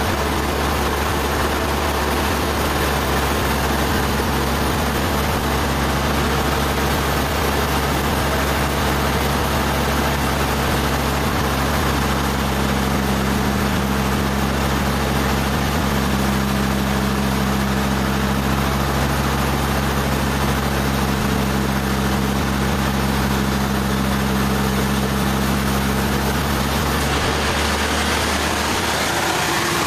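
Sawmill machinery running steadily: a constant engine hum with a steady hiss over it. A stronger hum sets in about twelve seconds in and drops away near the end.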